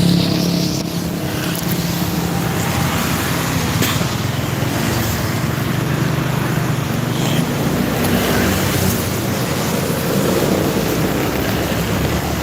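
Vehicle engine running at a steady pitch under an even rush of wind, wet-road and traffic noise, as heard while riding along a road in the rain.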